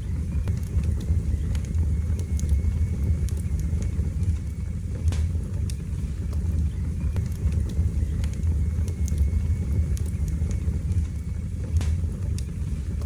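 Wood fire burning in a fireplace: a steady low rumble of flames with sharp crackles and pops scattered irregularly throughout.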